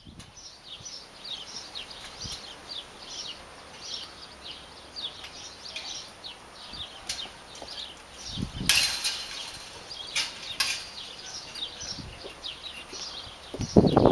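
Birds chirping: a steady run of short, high, falling chirps, several a second. Two brief loud noisy bumps break in, the first a little under nine seconds in and the second about two seconds later.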